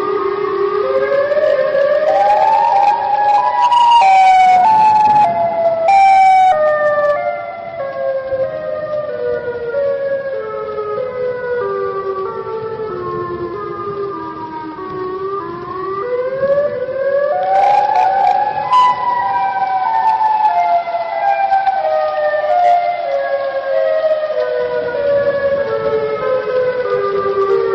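Outdoor tornado warning siren wailing: its tone climbs over about four seconds, sinks slowly, then climbs and falls again about two-thirds of the way through, pulsing in short regular beats.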